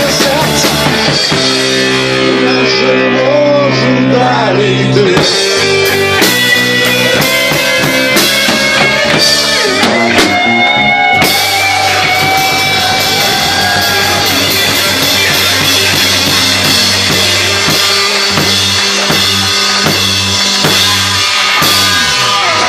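Live rockabilly band playing loudly: a drum kit and guitar over long-held low notes.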